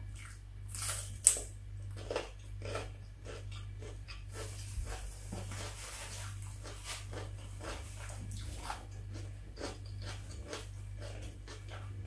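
A bite into a strip of raw red bell pepper, one sharp crunch about a second in, then crunchy chewing.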